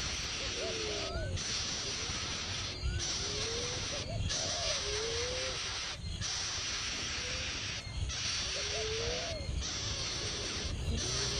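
Bird calls: short, low, gliding notes, rising then falling, in groups of two or three every few seconds. They sit over a steady high hiss that stops briefly every one to two seconds.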